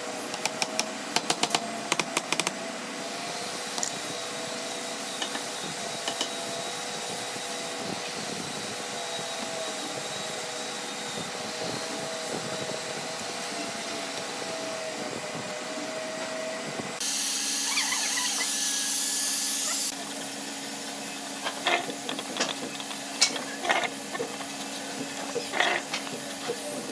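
A small power tool's motor running steadily, its pitch wavering slightly, with a run of sharp clicks in the first couple of seconds. Near the middle it gives way to about three seconds of loud hiss, followed by scattered light knocks and taps.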